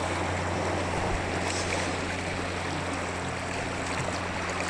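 Steady rushing of flowing water, like a stream, with a steady low hum beneath it.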